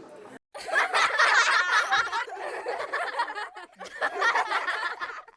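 People laughing, starting abruptly about half a second in and carrying on in choppy, rapid bursts.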